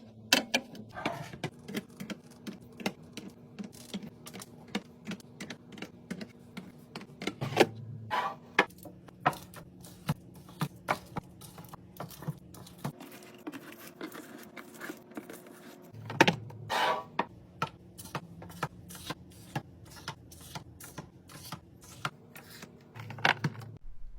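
Containers and packaged items being set down and arranged on fridge shelves: a steady run of light clicks and taps, with a few louder clusters and duller knocks about eight, sixteen and twenty-three seconds in, over a faint low hum.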